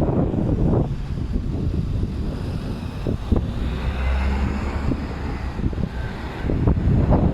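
Gusty wind ahead of an approaching storm, buffeting the microphone with a low rumble that eases in the middle and picks up again near the end.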